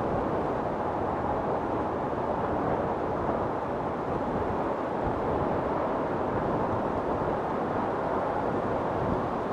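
Strong storm wind blowing in a steady, even rush with no distinct gusts, thunder or other events.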